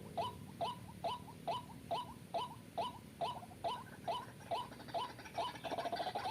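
White-breasted waterhen calling: short, identical notes repeated about twice a second in a steady monotonous series, with a faster, busier chatter joining near the end.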